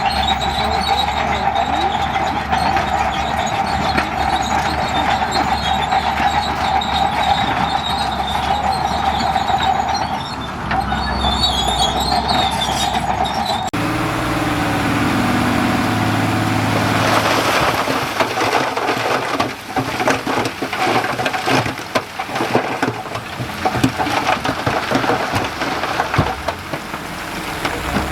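Heavy earthmoving machinery working, with a steady high-pitched whine over the engine. About halfway through the sound changes abruptly to a lower engine note with rapid clanks and knocks.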